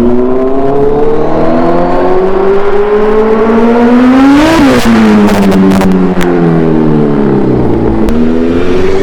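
Kawasaki Z1000's inline-four engine, breathing through an Arrow full-system aftermarket exhaust, being revved: the revs climb steadily for about four and a half seconds, then fall back with a few sharp cracks from the exhaust, drop to a low note, and start rising again near the end.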